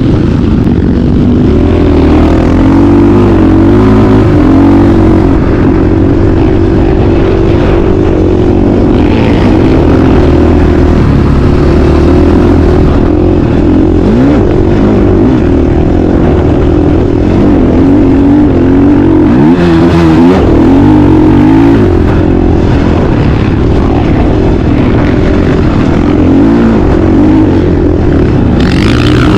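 Motocross dirt bike engine running hard, its pitch rising and falling again and again as it revs and shifts, over a heavy low rumble.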